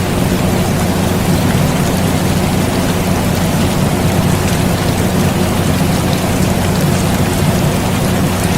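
Steady rain with scattered drop ticks over the constant low hum of an air conditioner, unchanging throughout.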